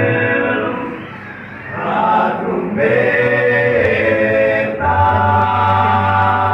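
Vocal quartet singing a cappella, holding chords in close harmony. The singing eases briefly about a second in, then swells back, and a new chord with a deep bass note comes in near the end.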